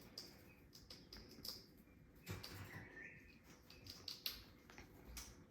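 Faint scattered taps, clicks and rustles of a pet noisy miner bashing and tugging at a towel with its beak. A short faint bird chirp comes about three seconds in.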